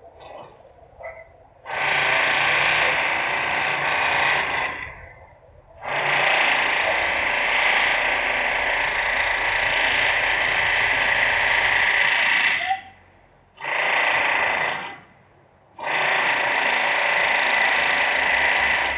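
Loud industrial machinery or power-tool noise coming in runs that start and stop: a burst of about three seconds, a long run of nearly seven seconds, a short burst, then another run still going at the end.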